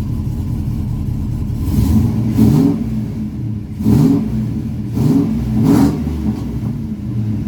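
2005 Chevy Silverado 1500's 4.8 L V8, fitted with a Texas Speed stage 2 cam and not yet tuned, idling and then revved in about four short throttle blips through the middle, each rising in pitch and falling back, before settling to idle again.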